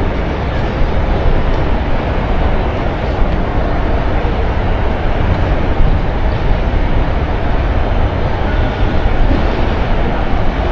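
Steady, loud rumbling noise, heaviest in the low end and without pattern or pitch: wind buffeting the camera microphone outdoors.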